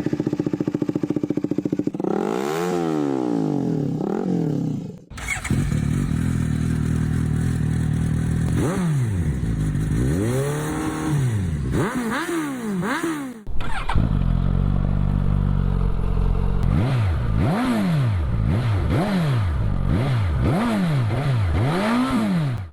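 Suzuki GSX-S motorcycle exhaust idling and being blipped on the throttle again and again, each rev rising and falling back to idle. The sound cuts abruptly twice, between separate recordings.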